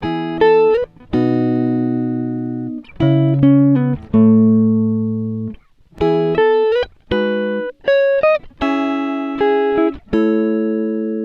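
Background music: a plucked guitar playing chords and single notes, each struck and left to ring and fade, some with a short slide in pitch.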